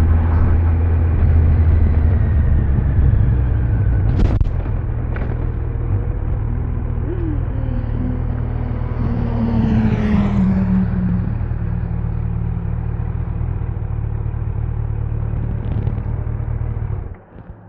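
Kawasaki Z900's inline-four engine running at low revs and then idling steadily, with a sharp click about four seconds in. The engine sound cuts off abruptly near the end as the engine is switched off.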